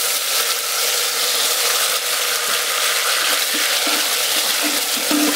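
Chopped tomatoes sizzling in hot oil in an Instant Pot's stainless steel inner pot on sauté mode, stirred with a silicone spatula. A steady frying hiss.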